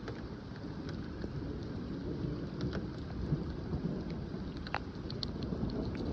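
Heavy thunderstorm rain pouring steadily, with a low thunder rumble underneath that swells slightly toward the end. Scattered sharp ticks of drops land close by.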